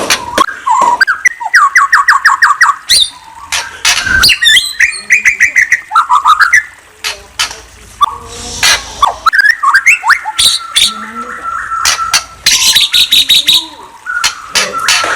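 A murai, a Copsychus songbird, singing a loud, varied song of rapid repeated trills, whistled slides and sharp clicking notes, changing phrase every second or two.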